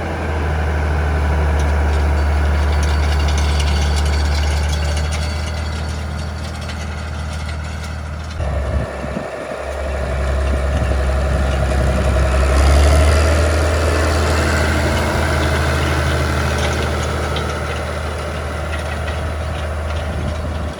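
Ford 8210 tractor's six-cylinder diesel engine running steadily under load while pulling grass harrows. The steady low drone breaks briefly about eight seconds in, then swells to its loudest a little after halfway.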